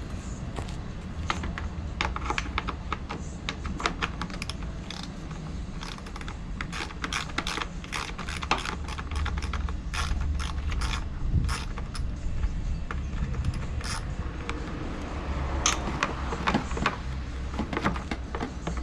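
Hand tools working on the BW'S 100 scooter's fasteners while its engine is being taken off: a run of sharp, irregular metallic clicks and clinks, like a ratchet wrench and tools knocking on metal, over a steady low hum.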